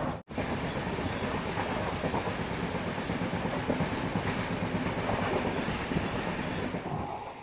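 Indian Railways sleeper-class coach running along the track, heard from inside: steady rumble and rattle of wheels on rails with a constant high hiss, easing a little near the end.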